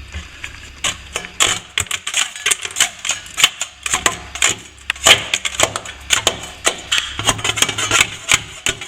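A hand tool scraping and chipping along a crack at a plaster ceiling-wall joint, opening the crack up. It makes a run of irregular sharp scrapes and clicks, several a second.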